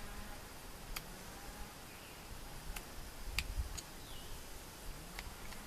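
Sharp knife shaving and smoothing a small wooden trigger stick: a few quiet, scattered clicks and scrapes of the blade on the wood.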